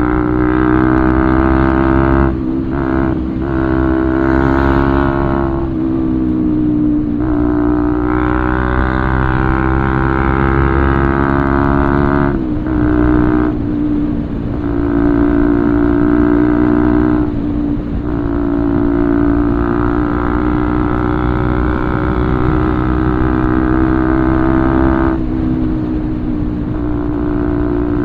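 Bajaj Pulsar 200's single-cylinder engine running through an Akrapovič full-system exhaust. The note holds steady with the pitch drifting gently up and down, and it cuts back briefly several times as the throttle is eased off.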